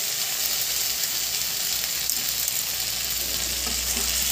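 Onions, green chillies and tomato wedges sizzling in hot oil in a steel kadai, with a steel spatula stirring through them near the end.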